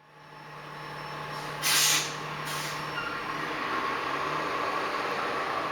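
Garbage truck's diesel engine idling with a steady hum, and a short loud hiss of air brakes releasing air about two seconds in, followed by a smaller hiss.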